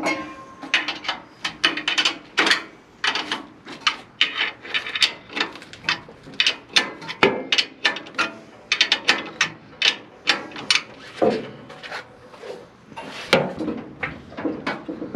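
Hand ratchet clicking in quick irregular runs, with knocks of metal parts, as a bolt is run in to mount the engine.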